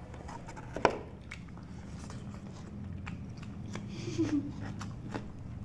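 Close-up eating sounds of people chewing rice and curry eaten by hand, with scattered sharp mouth clicks, the loudest about a second in, and a brief hum from one of the eaters about four seconds in.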